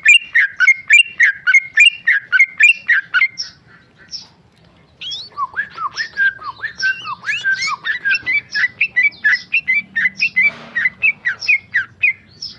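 Yellow-vented bulbul singing in rapid, continuous bursts: a quick run of repeated chirping notes, about three a second, breaks off briefly and then starts again as a longer, more varied string of notes.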